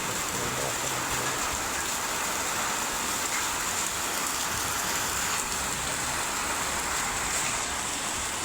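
Heavy rain falling and drumming steadily on surfaces, an even hiss with faint drop ticks.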